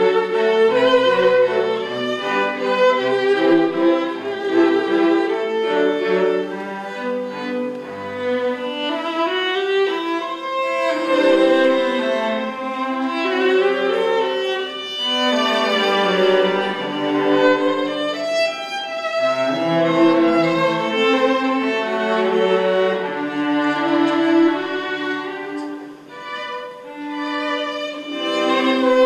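A string quartet playing: violins and cello in held, overlapping notes, with a brief softer passage near the end.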